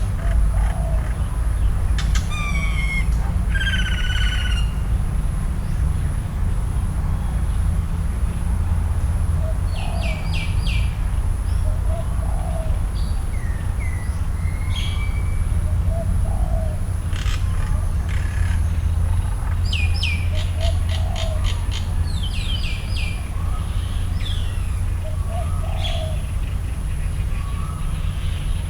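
Several wild birds calling: short runs of quick, high chirping notes, an occasional rising whistle, and a lower two-part call repeated every few seconds. A steady low rumble and a thin, constant high-pitched tone run underneath.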